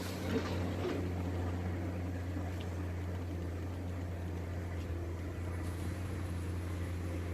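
Heavy diesel engine of earthmoving machinery running steadily with a constant low drone, with a few faint knocks in the first second.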